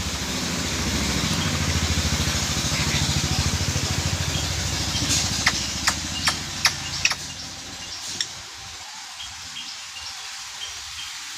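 An engine running with a fast, even pulse, which dies away about seven seconds in. A few sharp clicks come just before it fades, and faint high chirps follow.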